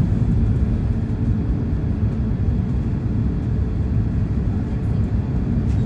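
Steady low rumbling cabin noise inside an Airbus A380 airliner, with no changes or distinct events.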